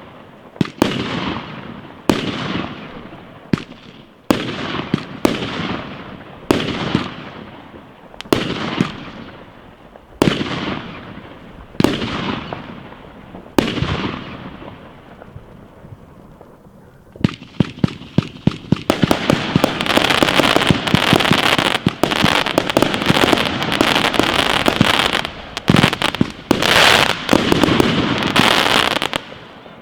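Aerial fireworks going off. First come single bangs about once a second, each trailing off in a fading echo. From about halfway there is a dense, rapid barrage of bangs and crackling, which stops just before the end.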